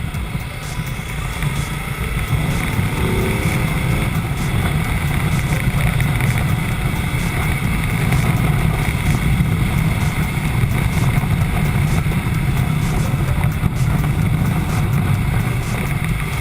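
Ducati Multistrada motorcycle running at steady road speed, its engine a constant low rumble under heavy wind noise on the camera's microphone.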